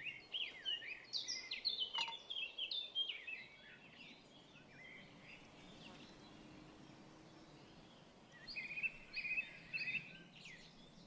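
Songbirds singing: rapid chirps and twitters for the first three seconds or so, a quieter stretch of faint outdoor background noise, then another short burst of song about eight seconds in.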